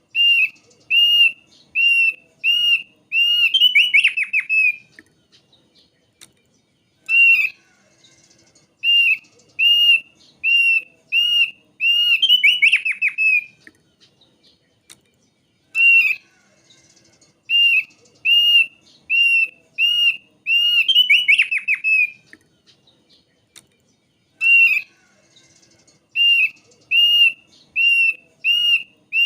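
Thick-billed white-eye singing the same phrase over and over, roughly every nine seconds: a run of six or seven clear, evenly spaced whistled notes, then a quick rattling trill that falls away.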